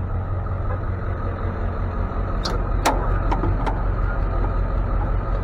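Tow truck's engine idling steadily, with a few short clicks or knocks about halfway through.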